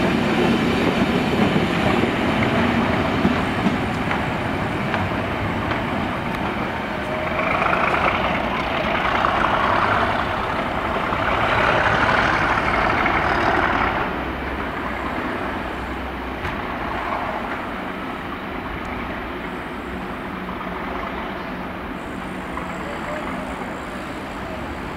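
Train running out of the station, its low rumble fading over the first few seconds. A stretch of louder mid-pitched noise comes in three swells from about seven to fourteen seconds in, then steady quieter railway background.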